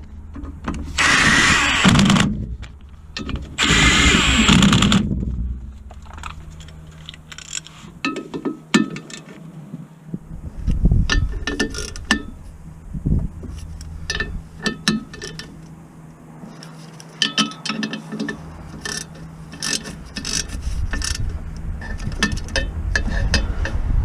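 Tools working on metal car parts: two loud hissing bursts in the first five seconds, then a string of sharp metallic clinks and knocks, some briefly ringing.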